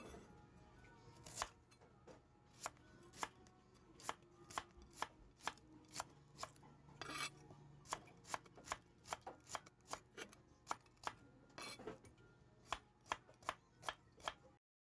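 Knife chopping on a cutting board: a series of separate, irregular strokes that come faster, about three a second, in the second half, stopping abruptly near the end.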